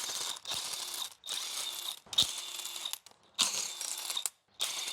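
Hand ratchet wrench clicking in about six quick bursts, each under a second, as bolts are worked on a GM 3.6 V6 engine during teardown.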